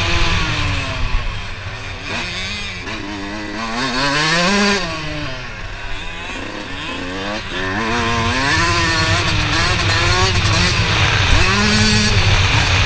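Motocross bike engines revving, their pitch rising and falling again and again as the throttle is opened and eased off.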